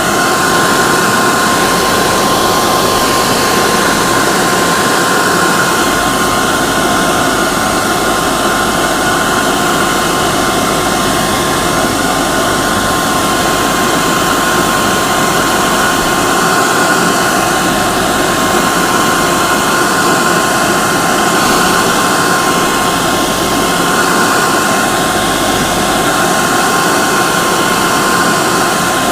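Hair dryer running steadily on one setting: a continuous airy rush with a constant motor whine.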